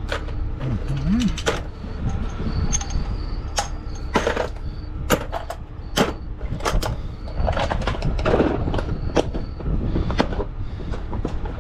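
Irregular metallic clanks, knocks and clicks of fittings and parts being handled while air lines are hooked up to a truck. A steady low rumble runs underneath.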